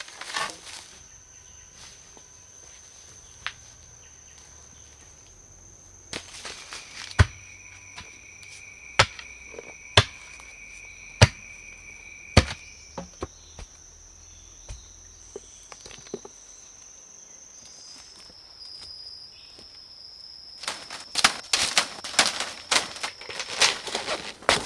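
Insects trilling steadily in the rainforest, joined by a second, lower trill for a few seconds. Over it come five sharp knocks a little over a second apart, like wood being struck, and near the end a quick cluster of clattering knocks.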